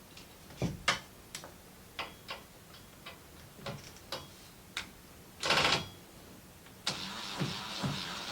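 Scattered light knocks and clicks of objects being handled, with a short, louder rustle about five and a half seconds in. Near the end a steady background hiss sets in.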